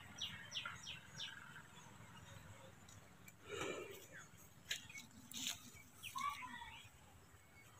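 Faint outdoor birdsong: a quick run of about four short, high, falling chirps at the start, then scattered softer calls. A couple of soft clicks or knocks come midway.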